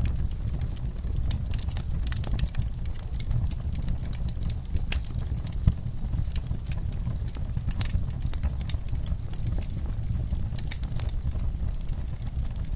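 Wood fire crackling, with many quick irregular pops and snaps over a steady low rumble of the flames; one sharper pop about six seconds in.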